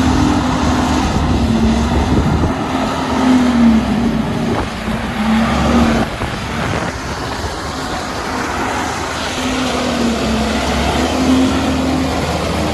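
Tractor engine running under load with a rotary tiller working, the engine note wavering up and down.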